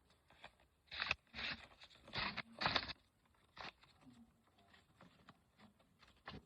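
Sheet of paper being folded and creased by hand: a few short crinkling rustles in the first half, then fainter handling.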